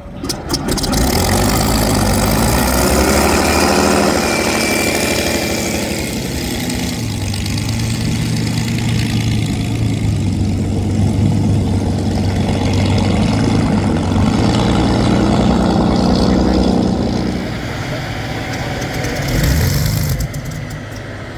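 Rolls-Royce Merlin V12 of a vintage hydroplane running loud through straight exhaust pipes: it comes in suddenly just after the start, then runs with its pitch rising and falling, and falls away near the end.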